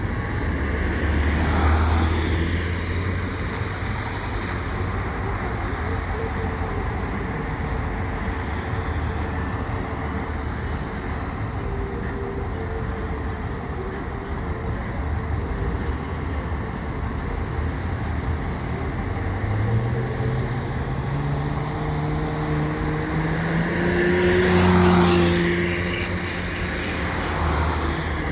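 Fire engine's diesel engine and road noise over steady street traffic. A vehicle passes about two seconds in. Later the engine revs up with a steadily rising pitch as the truck accelerates, loudest about three seconds before the end.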